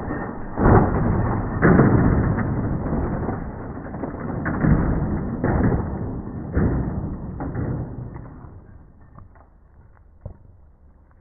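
A toy radio-controlled car (New Bright) running, its noise broken by repeated knocks and thuds, fading away over the last few seconds with only a few small clicks left.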